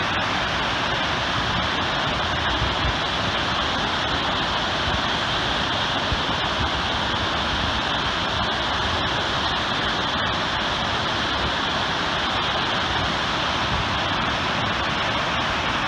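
The Great Falls of Paterson, a large waterfall, rushing in a steady, even roar of falling water.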